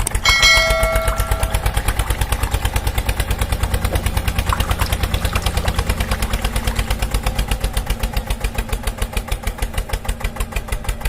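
A small engine running with an even putter of about seven beats a second, the sound of a miniature DIY tractor's engine. A brief ringing tone sounds over its first second or so.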